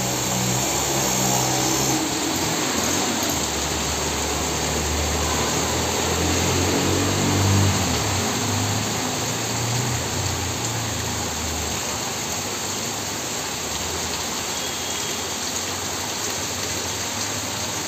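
Heavy rain pouring steadily, with the low sound of vehicle engines running as an auto-rickshaw and a car drive through floodwater, throwing up water at the wheels. The engine sound fades out past the middle while the rain goes on.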